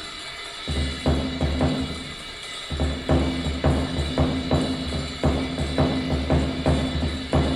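Live bebop jazz with the drums to the fore: a steady run of sharp drum strikes over a low bass line.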